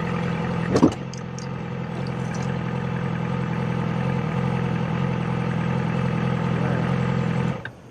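Yamaha R6's inline-four engine running steadily at an even pitch, with one brief loud rising sound about a second in.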